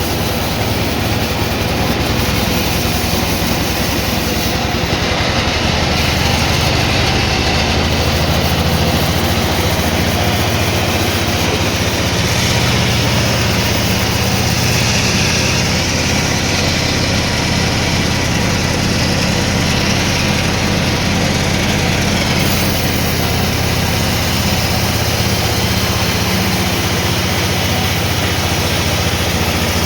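Sawmill machinery running steadily, with a continuous engine-like drone and dense, even noise throughout.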